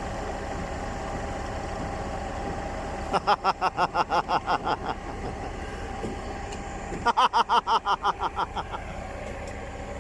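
Putzmeister 36-4 concrete pump truck running steadily, a low engine rumble. Twice it is interrupted by a short run of rapid high pitched pulses, about six a second, each run lasting under two seconds.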